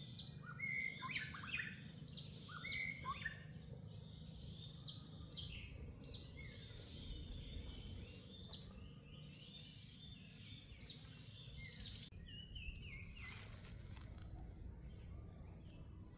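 Outdoor wildlife sound: a steady high thin whine with short falling chirps repeating about once or twice a second. Both cut off abruptly about twelve seconds in, followed by a brief rustle.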